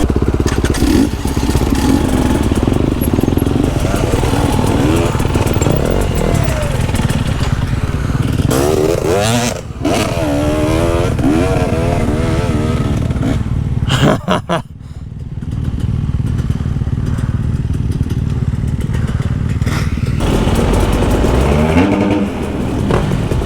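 Husqvarna TE 250i two-stroke dirt bike engine revving up and down as it is ridden along the trail. A little past the middle the engine sound drops away sharply for about a second, then builds back.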